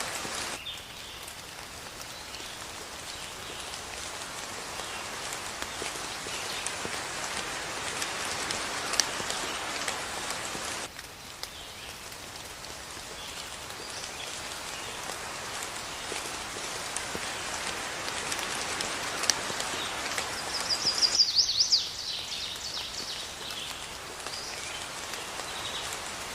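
Steady rain falling, which drops abruptly in level about a second in and again near the middle. A bird gives a short, rapid trill of repeated high notes about three-quarters of the way through.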